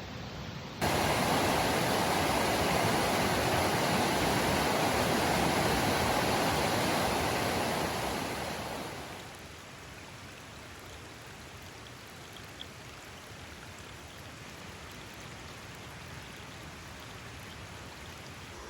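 Rushing creek water, a steady loud wash that cuts in suddenly about a second in, then fades away to a faint hiss around nine seconds.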